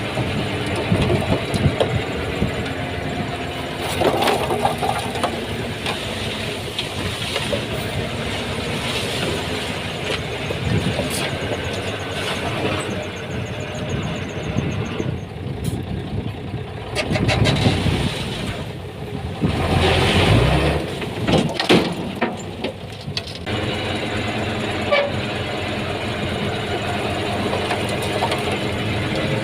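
Diesel engine of a Komatsu D31P bulldozer running under work, with louder surges about two-thirds of the way through and scattered short knocks.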